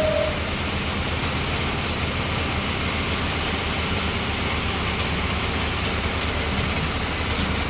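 An engine running steadily under a loud, even hiss, with a low hum that holds unchanged throughout.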